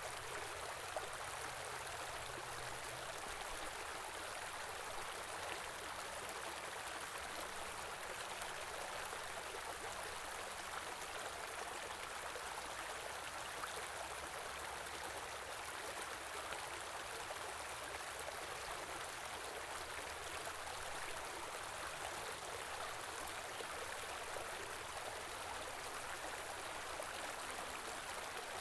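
Small river flowing over rocks: a steady rushing and gurgling of running water.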